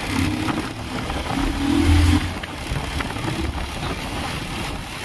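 A motor vehicle engine running over steady road and wind noise, swelling to its loudest about two seconds in, then fading back into the road noise.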